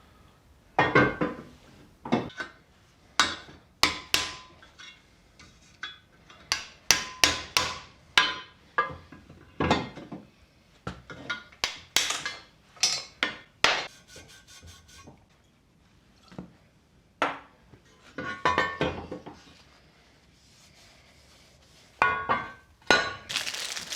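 Irregular sharp knocks and clinks of hand tools on metal, a hammer among them, in clusters with short pauses between, as the old rear crankshaft oil seal is worked out of its housing.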